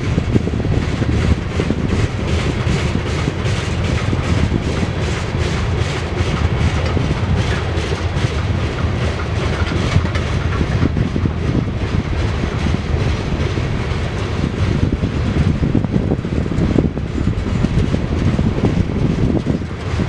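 Loud, steady rumble of a freight train's grain hopper cars rolling past, with a regular clickety-clack of wheels crossing rail joints.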